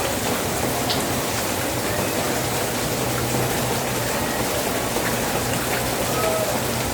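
Steady rain falling on surfaces: a dense, even hiss with no let-up.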